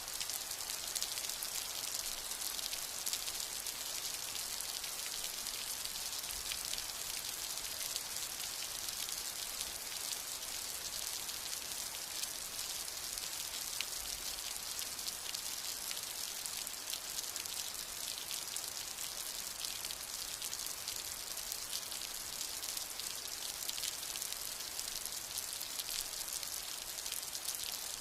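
Steady rain falling, an even hiss of many fine drops tapping, with no thunder.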